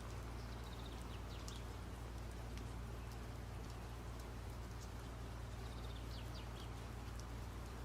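A low steady hum with faint, short, high falling chirps twice near the start and again a little before the end, and a few light ticks.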